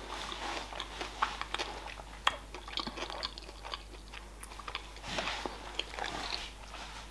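Close-miked chewing of a sushi roll: soft wet mouth sounds with many small clicks.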